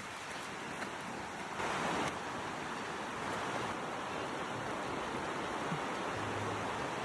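Steady rushing of a flowing river, swelling briefly louder about two seconds in.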